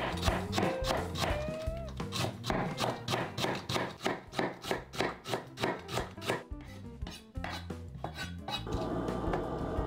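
Kitchen knife shredding green cabbage on a wooden cutting board: quick, even chops at about four a second, thinning out and stopping about seven seconds in.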